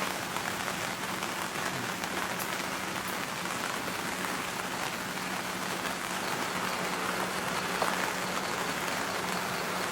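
Steady rain falling in a dense, even patter, with a steady low hum underneath.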